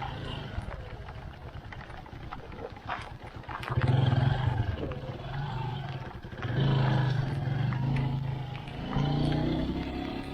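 Motorcycle engine running on the move, its low note surging louder and dropping back several times from about four seconds in as the throttle is opened and eased.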